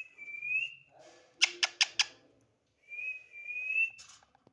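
Pet parrot whistling: two long whistles, each rising slightly at its end, with four quick sharp chirps between them about a second and a half in.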